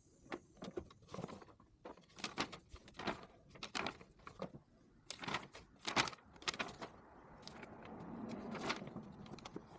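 Small hand tools clicking and tapping on metal parts, a run of short irregular clicks, giving way to a softer rustling noise in the last few seconds.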